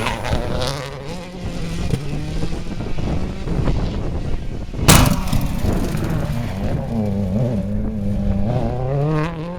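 A rally car's engine revving hard, the revs rising and falling as it shifts and brakes. One sharp bang about five seconds in.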